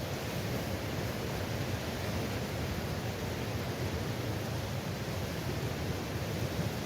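Gale-force wind blowing through the woodland trees by the loch, a steady rushing that sounds like waves breaking on a shore.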